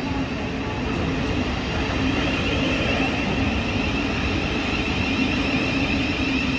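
A train running through the station: a steady rumble with a constant high whine over it.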